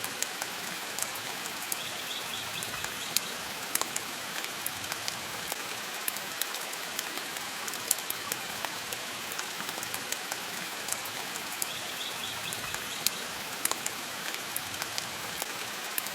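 Steady rain hiss blended with a wood fire crackling, scattered sharp pops and clicks over the even wash of rain.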